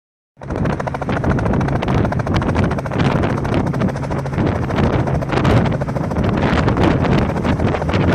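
Helicopter at takeoff, its main rotor making a fast, steady chop over a low engine and turbine tone, with wind buffeting the microphone.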